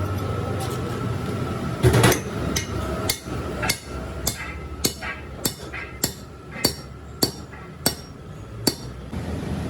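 Hammer striking metal: about a dozen sharp, ringing blows roughly every half second, the first one the loudest, then stopping shortly before the end.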